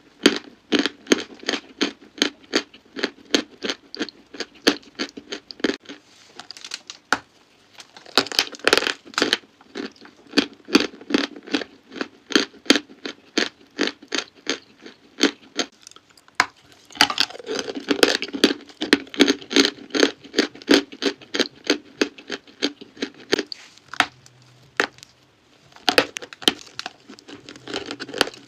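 Crunchy chalk crunching and crumbling in a rapid run of crisp crunches, several a second. The crunches come in denser bursts with short lulls between them.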